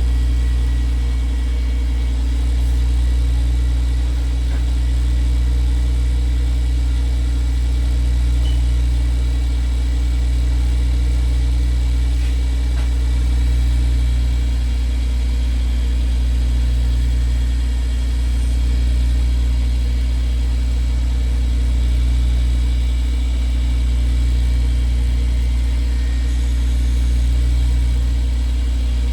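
Wood lathe's electric motor running steadily with a deep hum while the cherry handle spins, its loudness swelling gently every few seconds.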